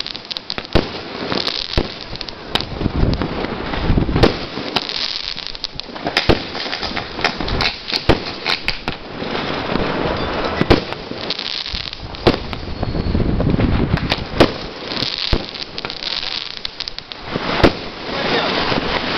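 Many fireworks going off: sharp bangs from bursting aerial shells at irregular intervals, several a second at times, over a continuous crackle and hiss.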